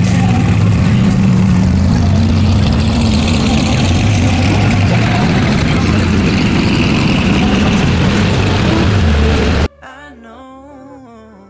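Car engine running loudly and steadily with a strong low exhaust note. It cuts off abruptly near the end.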